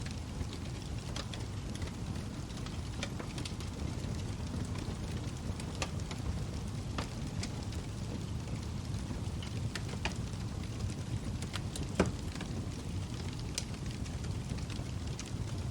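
Log fire burning in a fireplace: a steady low rush of flames with scattered sharp crackles and pops, one louder pop about twelve seconds in.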